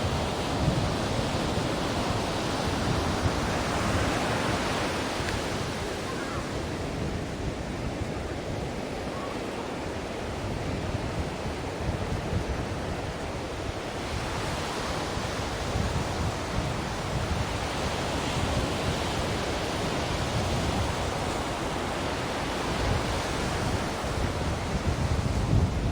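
Ocean surf: a continuous rush of waves breaking and washing in, swelling twice and easing again.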